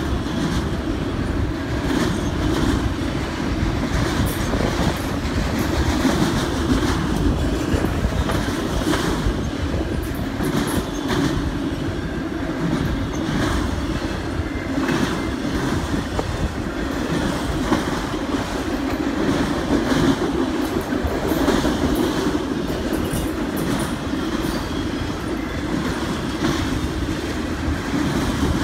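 Autorack freight cars rolling past at close range: a steady rumble of steel wheels on rail, with irregular clicks and clacks as the wheels pass over the track.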